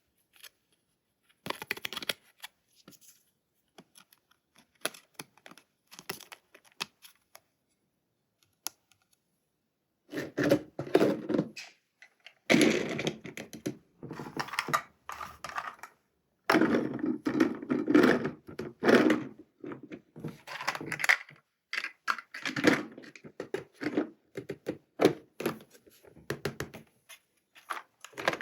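Hard plastic toy pieces and their packaging being handled: a few scattered light clicks and taps, then from about ten seconds in, bursts of dense clicking, knocking and rustling.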